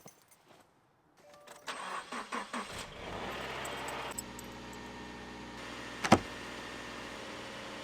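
A car engine being started with the key: a short spell of cranking about two seconds in, then the engine catches and settles into a steady idle. One sharp knock about six seconds in.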